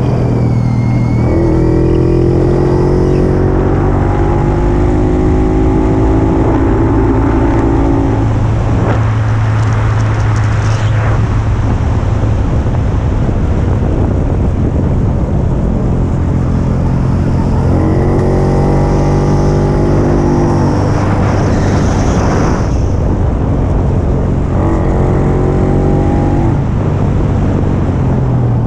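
Puch 250 TF vintage two-stroke motorcycle engine running under way with wind rush, its steady low note joined three times by a higher engine note that rises in pitch.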